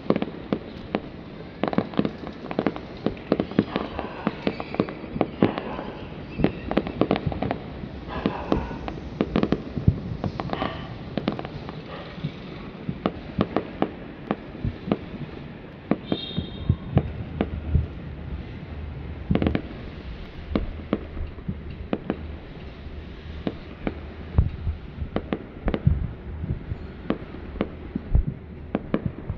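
Fireworks display: aerial shells bursting in a rapid, unbroken string of bangs and crackles, many per second.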